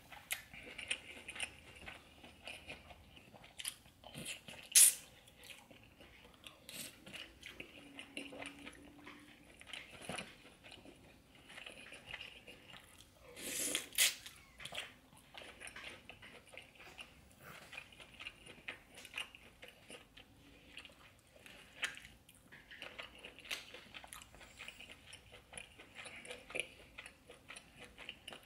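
Close-miked chewing and biting through mouthfuls of seafood boil, a continuous run of wet mouth sounds and small crunches. Two louder sharp clicks stand out, about five seconds in and again about fourteen seconds in.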